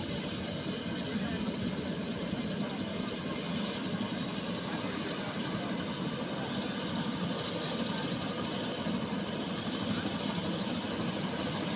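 Helicopter turbine engine and rotor running steadily, with a constant high whine over the engine noise.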